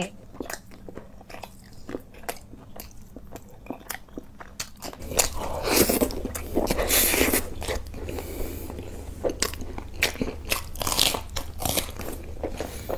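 Close-miked eating of meat curry with flatbread: wet chewing and biting with many small, irregular mouth clicks. A low steady hum comes in behind it about five seconds in, and the chewing gets louder.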